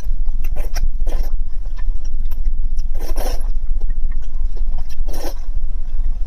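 Close-miked eating sounds: four short, wet mouth noises spaced a second or two apart, over a steady low rumble.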